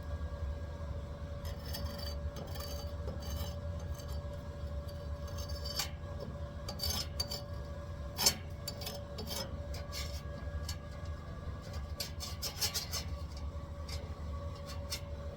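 Stick (arc) welding: an irregular crackle and spatter from the arc over a steady low hum and a steady tone from the welding machine.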